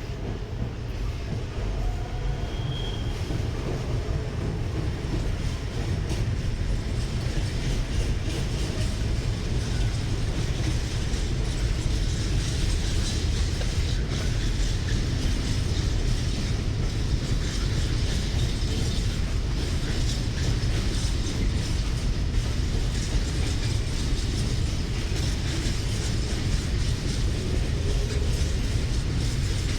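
Freight train rolling past at speed, wagons rumbling with a continuous stream of quick wheel clicks, getting louder over the first several seconds and then steady.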